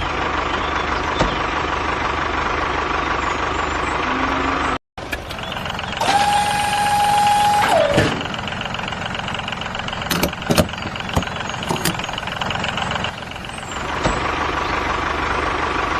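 Truck engine running steadily. It cuts out abruptly about five seconds in, then runs on, with a steady pitched tone of about two seconds that falls off at its end. A few short clicks follow about ten seconds in.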